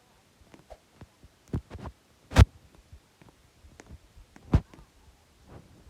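Scattered faint clicks and a few short, dull thumps, the loudest about two and a half seconds in and another a couple of seconds later.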